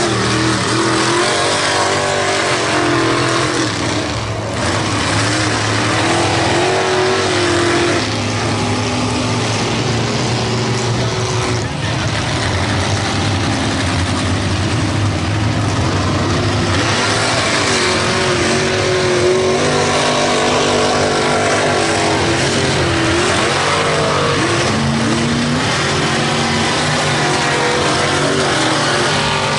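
Mega mud truck's big-block engine running loud and steady, its pitch rising and falling as it revs.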